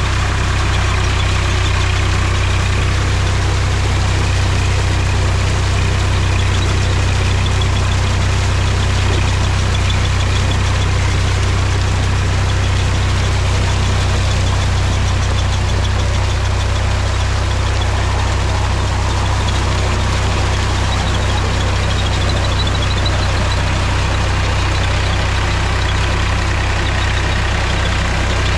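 Mahindra tractor's diesel engine running steadily, loud and low-pitched, with no change in engine speed.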